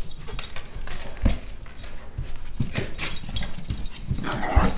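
Chihuahua puppy play-fighting: short dog sounds mixed with scuffling and knocks. A louder, rough burst comes shortly before the end.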